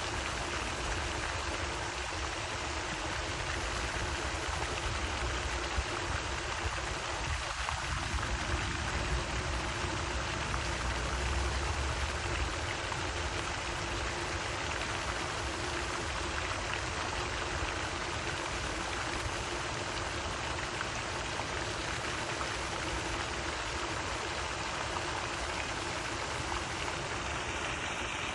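Lake fountain spray falling back onto the water in a steady, even splashing rush, over a low rumble.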